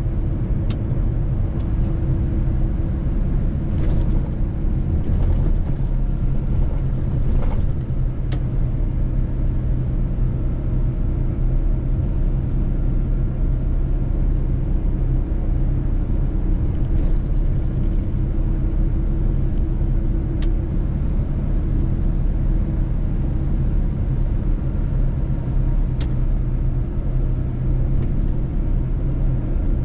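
Mercedes-Benz truck driving at a steady pace, its engine and tyres making a continuous low drone. A few short sharp clicks stand out here and there.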